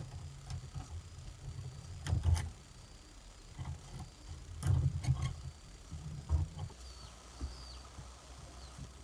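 Dull thumps and knocks from handling building materials, with a few sharp clicks about two, five and six seconds in; birds chirp near the end.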